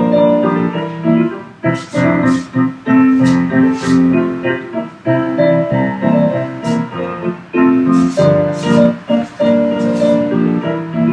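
Solo piano playing ballet-class accompaniment music, with a steady, rhythmic run of notes.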